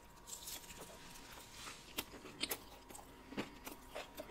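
Close-miked chewing of a mouthful of food: quiet mouth sounds with a few faint, short wet clicks.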